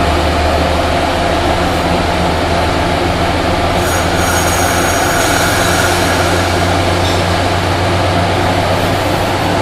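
Diesel push-pull commuter train with Bombardier cab cars rolling along the track, with a steady low engine drone from the locomotive. A brief high-pitched squeal cuts in about four seconds in and fades.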